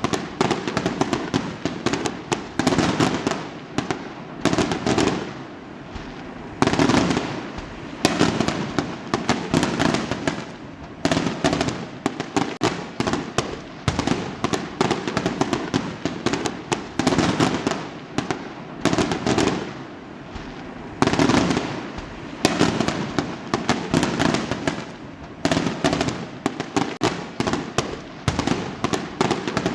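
Fireworks going off in quick succession: dense, continuous bangs and crackling, with louder clusters of bursts every second or two.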